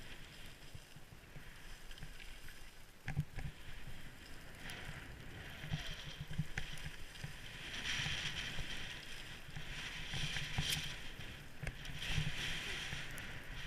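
Skis swishing and scraping over snow through a run of turns, the hiss swelling with each turn every couple of seconds, with low wind rumble on the microphone.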